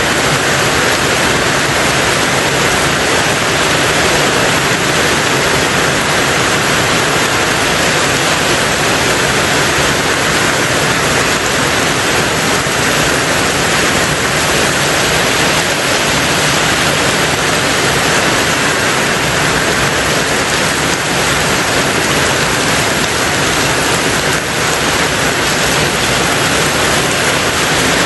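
Heavy rain falling steadily on a tin roof, a dense even hiss with no single drops or thunder standing out.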